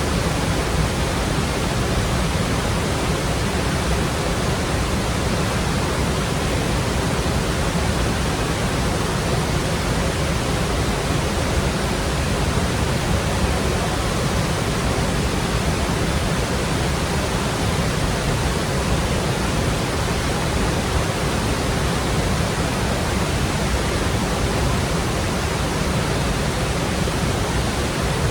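Water of the Lech river rushing over the Lechfall waterfall, a steady, even noise of falling water with no breaks.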